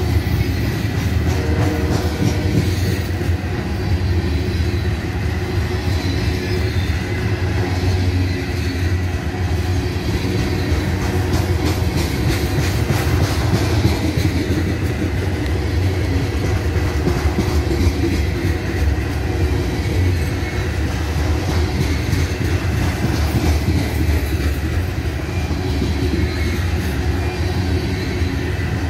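Covered hopper grain cars of a freight train rolling past: a steady rumble of steel wheels on rail, with repeated clicks as the wheels cross rail joints.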